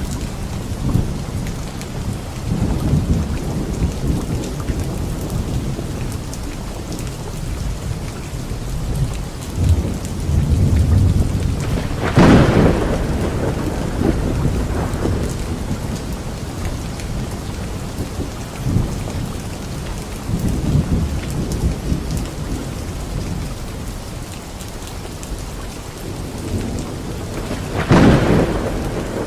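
Steady rain with rolling thunder rumbling low. There are two sharp, loud thunderclaps, about twelve seconds in and again near the end.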